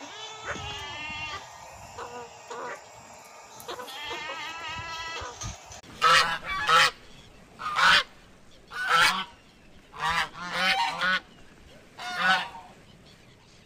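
A goat bleating several times with a quavering call, then, from about six seconds in, swans honking: about eight short, loud calls in a row, louder than the bleats.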